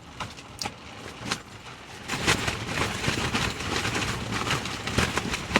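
Strong gusting wind buffeting a car with a hatchback tent on it, heard from inside the car, with irregular knocks and rustling; the gust grows louder about two seconds in.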